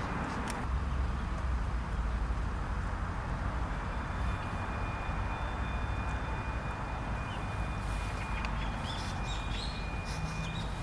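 A steady low rumble with faint bird chirps about eight to nine seconds in.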